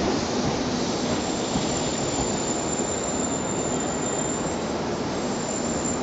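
Seibu Railway electric commuter train rolling slowly along the platform: steady wheel and running-gear noise, with a faint high wheel squeal for the first few seconds.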